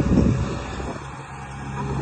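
Motor of a radio-controlled model construction machine running with a steady low hum; it dips about halfway through and picks back up near the end.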